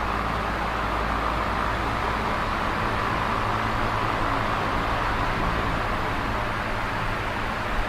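Large box fan running steadily: an even rush of air with a low motor hum beneath.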